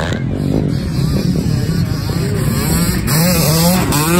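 Motocross dirt bike engines racing, their pitch rising and falling with the revs, with several bikes overlapping in the second half.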